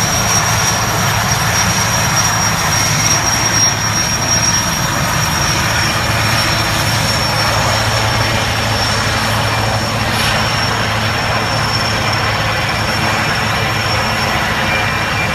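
Helicopters running at take-off power, a steady high turbine whine over a continuous low rumble and rotor noise.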